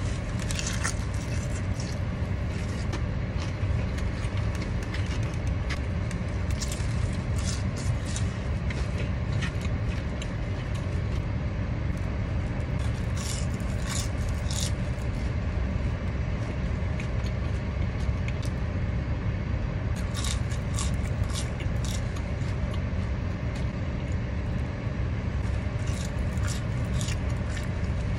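Chewing and crunching of crispy fried hot chicken tender breading, in bursts of crisp crunches every few seconds, over a steady low car rumble.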